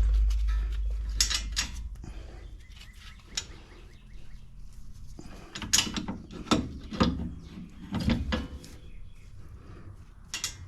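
Metal clicks and clanks as a brake caliper's parking brake mechanism and tools are worked by hand. Under them a low hum fades and stops about five seconds in.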